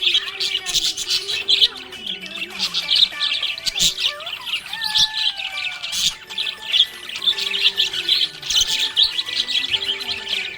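Budgies chirping and chattering without a break, a dense stream of quick high chirps with occasional squawks.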